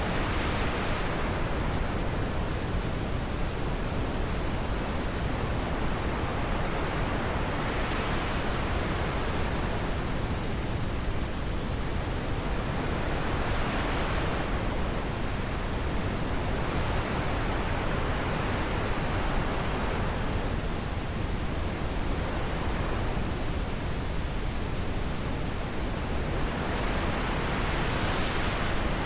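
Wind blowing steadily, a constant rushing noise with slow gusts that swell and fade in brightness every several seconds.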